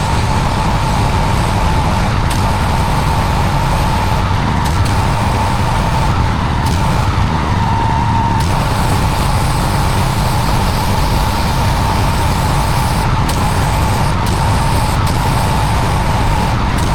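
Pressure washer running steadily, washing block paving, with a constant high whine over a heavy low rumble.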